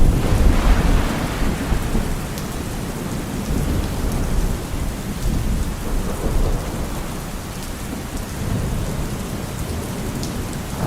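Thunder rumbling, loudest at the start and fading over the first few seconds, over steady rain.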